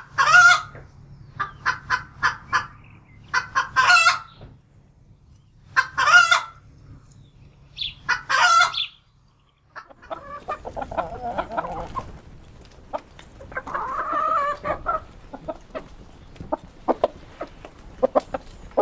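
Chickens clucking: quick runs of clucks broken by several louder, drawn-out calls. After a short break just before the ten-second mark, a busier, quieter chorus of clucking follows with small clicks mixed in.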